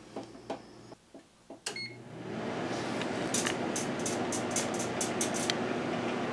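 Microwave oven keypad clicks and a beep, then the oven starts with a steady hum. About a second later comes a quick run of sharp snaps, the coins inside arcing briefly.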